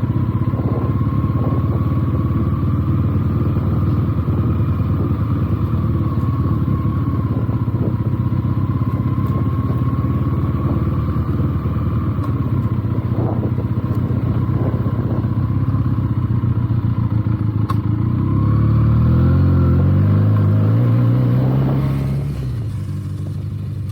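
Benelli TNT 300's parallel-twin engine running at low revs as the motorcycle rides over rough ground, with scattered knocks and clatter. About 18 seconds in the engine revs up for a few seconds, then drops back near the end.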